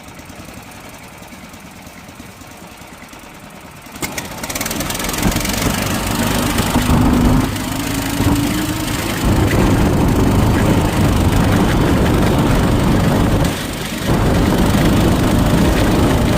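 A small gasoline engine running. It is throttled up about four seconds in, with its pitch rising for a few seconds, and it dips briefly twice, all under heavy rushing noise.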